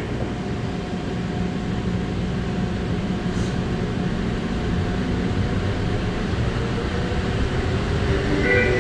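Inside a car of an automated, rubber-tyred airport people-mover train running through its tunnel: a steady running rumble with a faint steady hum. There is a brief click about three and a half seconds in.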